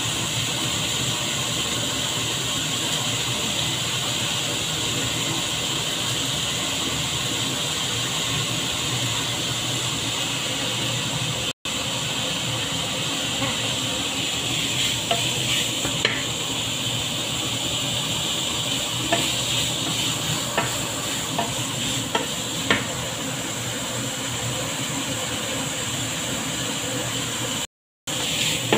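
Diced ham sizzling in a hot nonstick wok: a steady frying hiss, with small taps and scrapes of a wooden spatula from about halfway on. The sound breaks off briefly twice.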